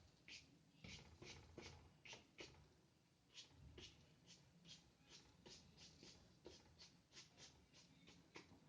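Paintbrush loaded with white gouache brushing and dabbing on paper in short, faint scratchy strokes, about two or three a second, with a short pause about three seconds in.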